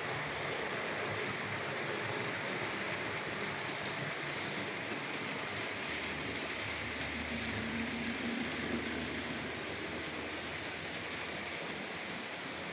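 H0-scale model trains running on the layout: a steady whir of the small locomotive motors and wheels on the track, with a lower hum joining about halfway through.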